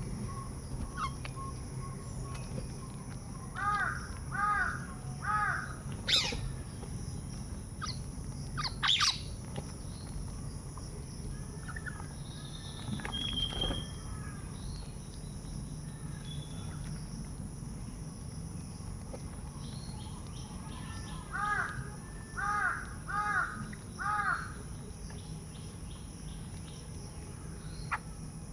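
Crows cawing: a run of three caws, then a run of five caws later on, with a few sharp clicks in between.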